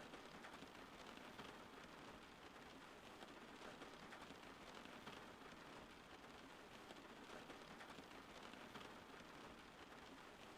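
Steady rain, faint and even, a dense patter of many small drops with no single hit standing out.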